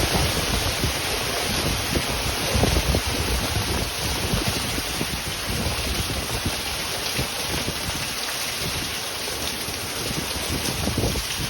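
Heavy storm wind and driving rain, steady and loud, with gusts rumbling and buffeting the microphone, strongest at the start and again near the end.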